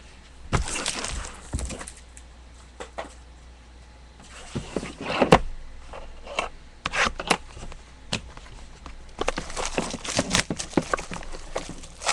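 Trading-card packaging and cards being handled: irregular crinkling and rustling with sharp clicks and taps, coming in three bouts.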